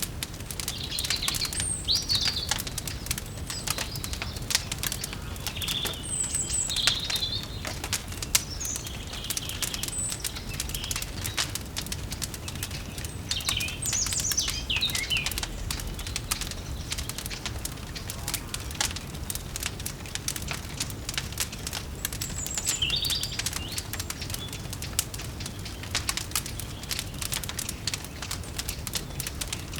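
Wood fire crackling steadily with a low rumble, while birds chirp in short bursts now and then.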